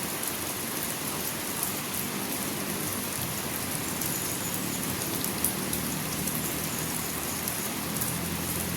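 Steady rain falling and pattering on surfaces, with many small drops striking close by. A low hum swells underneath around the middle and again near the end.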